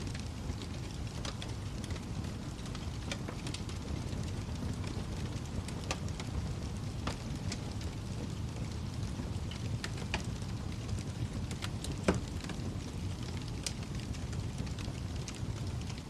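Wood fire in a fireplace crackling: a steady low roar of flames with irregular sharp pops and snaps, the loudest pop about twelve seconds in.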